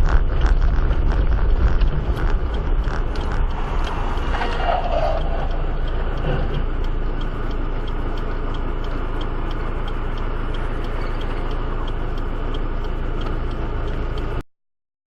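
Vehicle driving, heard from inside on a dash camera: a steady low rumble of engine and road noise with rattling clicks, loudest and busiest in the first two seconds. It stops abruptly near the end.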